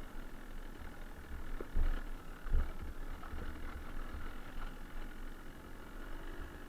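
Suzuki TS125R's two-stroke single-cylinder engine running steadily as the bike rides a rough gravel track, with scattered ticks and a couple of low thuds about two seconds in.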